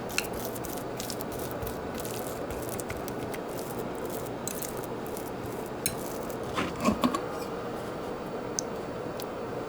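Cutlery and dishes clinking lightly over a steady hiss, with a few louder clinks about seven seconds in.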